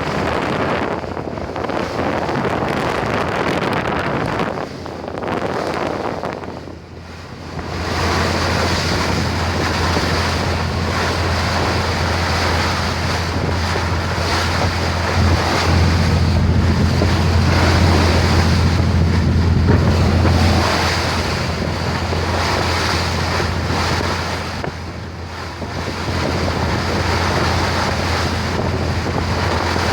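Boat engine running with a steady low drone that grows louder about eight seconds in, under wind buffeting the microphone and rushing water.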